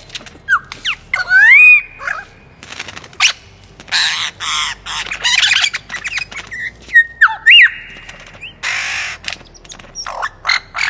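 Bird calls: loud sliding whistles that rise and fall, broken by several harsh, rasping screeches.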